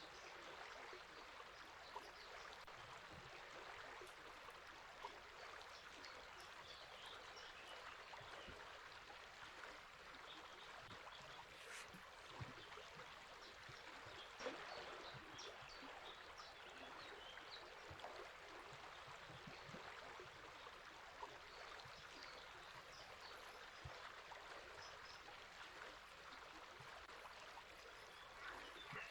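A river flowing with a steady, faint rush of water, and scattered faint bird chirps over it.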